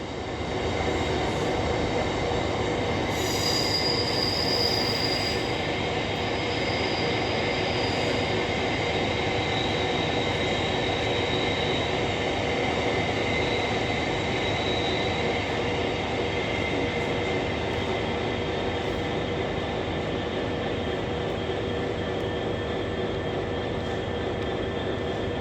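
A train running through the station at a steady level, with thin high squealing tones from the wheels on the rails coming and going in the first half.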